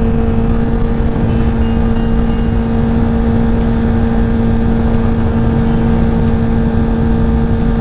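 Honda CBR1000RR inline-four engine holding a steady speed while riding, one even drone that neither rises nor falls, with wind noise rushing over the helmet microphone.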